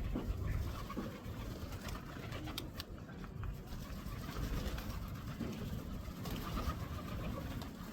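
Pigeons cooing over steady street background noise with a low rumble, and a few light clicks about three seconds in.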